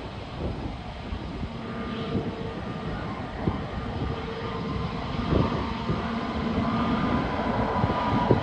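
Jet airliner engines running with a steady whine of several held tones over a rumbling roar, which comes in about two seconds in, with wind buffeting the microphone.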